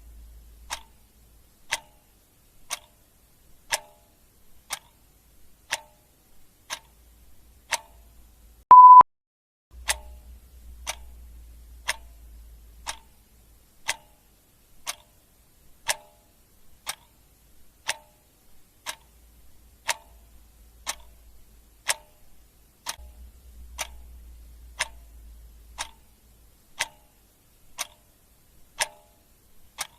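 Clock ticking steadily, about once a second. A single short, loud, high beep sounds about nine seconds in, and a faint low rumble comes and goes underneath.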